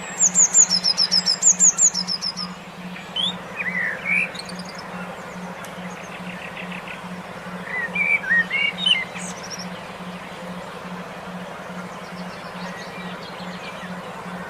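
Recorded songbird chirping: a fast run of high, sharp chirps, several a second, for the first two seconds. Shorter, lower calls follow briefly about three to four seconds in and again about eight to nine seconds in. A steady low pulsing hum runs underneath.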